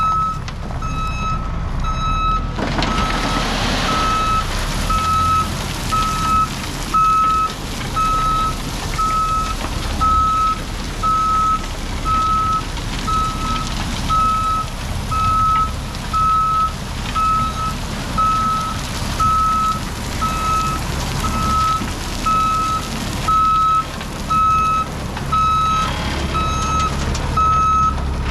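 Heavy vehicle's backup alarm beeping steadily, about one and a half beeps a second, over a running engine. A brief rushing noise comes about three seconds in.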